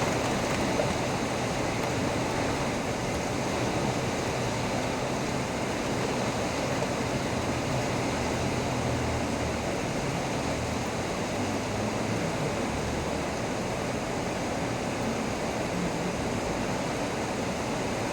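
Heavy thunderstorm rain falling steadily: a dense, even hiss with no breaks.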